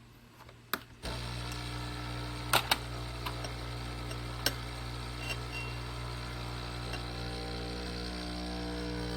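Electrolux E9EC1-100S espresso machine's pump switching on about a second in and running with a steady buzz as it pushes water through the coffee, a few sharp clicks over it.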